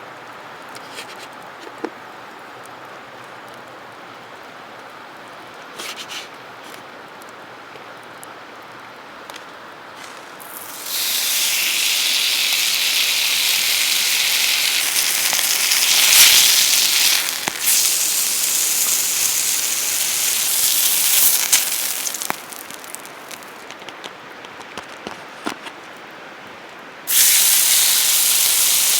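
Campfire burning with scattered sharp crackles and pops. A loud steady hiss starts abruptly about eleven seconds in, stops about twenty-two seconds in and comes back near the end.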